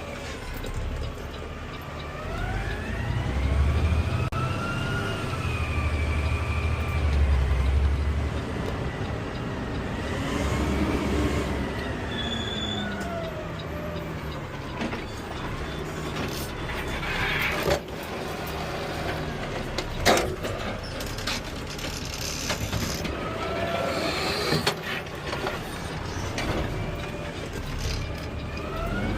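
Automated side-loader garbage truck at work: the CNG engine and hydraulics give a whine that rises and falls in pitch several times over a low rumble. Two sharp knocks come about two-thirds of the way through, the second the loudest.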